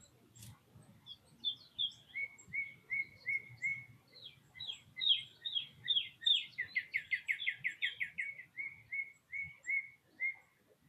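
A songbird singing a long whistled song: repeated slurred notes about four a second, quickening into a fast trill in the middle, then slowing again near the end. A single sharp click sounds just after the start.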